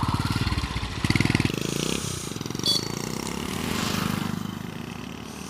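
Motorcycle engine pulling away: its firing pulses get louder briefly about a second in, then the sound drops and fades as the bike rides off. A brief high beep sounds about two and a half seconds in.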